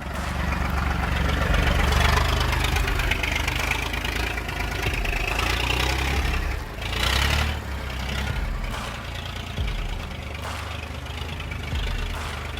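Heavy vehicle engine running steadily, a low hum under a rushing mechanical noise, with a brief surge about seven seconds in.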